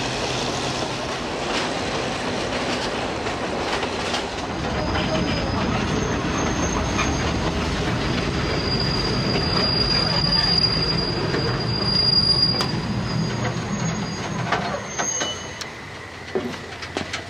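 Train running along the track, then its steel wheels squealing in steady high tones as it slows into a station. The running noise drops away near the end, leaving a few clicks.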